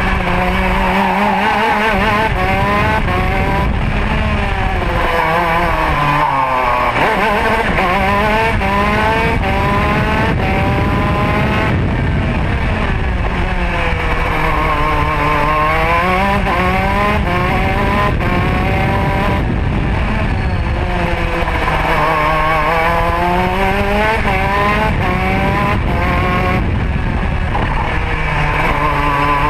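Modena two-stroke kart engine at racing speed, revving high and falling in pitch four times as the kart slows for corners and pulls out of them again.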